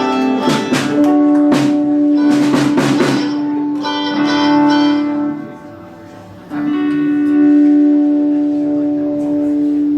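Live indie band playing: drum hits over held, ringing guitar notes for the first few seconds, then a brief drop about six seconds in before a long sustained note rings on.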